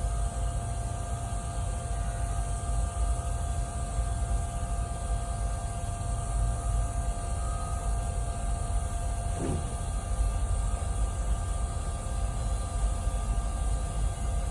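TIG welding on stainless steel: a steady, continuous arc buzz and hiss over a low hum, with a thin steady tone that stops about two-thirds of the way through.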